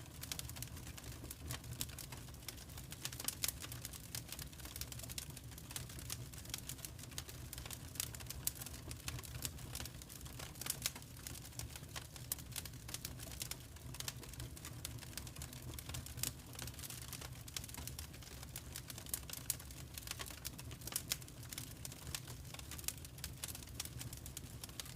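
Log fire crackling: irregular sharp pops and snaps over a low, steady rumble.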